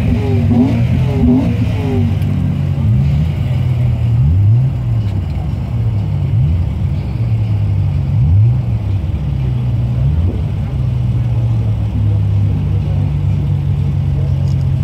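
A BMW car engine blipped repeatedly, with short rises in revs several times over the first ten seconds, then settling into a steady idle.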